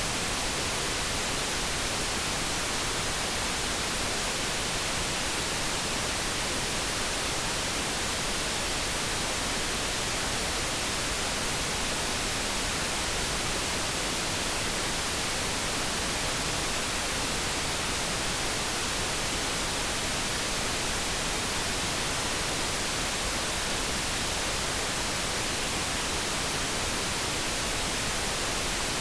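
Steady synthetic noise, an even hiss that does not change. No separate kettle tone stands out.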